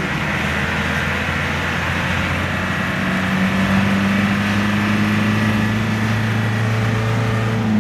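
Truck engine running steadily while the truck is driven, a continuous low hum with road noise. The hum strengthens slightly about three seconds in.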